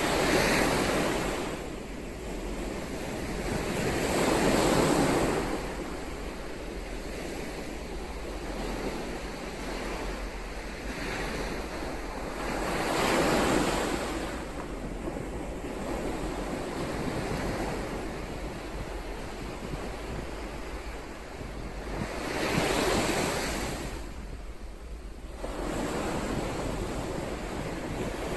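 Ocean waves breaking on the shore in a steady wash of surf, with a wave swelling and breaking every several seconds, about five times.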